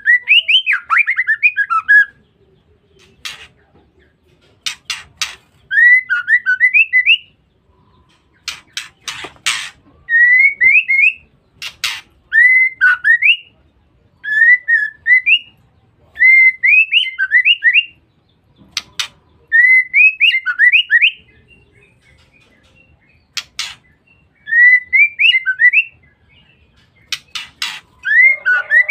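Female white-rumped shama calling: short phrases of quick rising whistled notes repeated every couple of seconds, the chattering 'ngeriwik' used as a lure sound. Sharp clicks come between some of the phrases.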